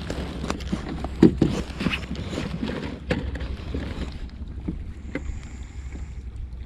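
Irregular knocks and clatter of gear being handled on a fishing kayak, the loudest about a second in, over a steady low rumble of wind on the microphone.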